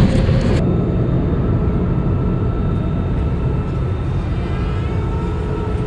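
Steady drone of an airliner's engines and airflow heard inside the passenger cabin, with faint steady whine tones over it.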